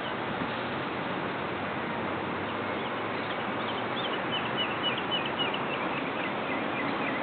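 A small bird chirping in a rapid run of short high notes, starting about two and a half seconds in, over a steady rushing noise.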